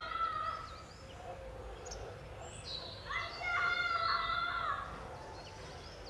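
Birds calling: short high chirps, and about three seconds in a louder drawn-out call lasting nearly two seconds.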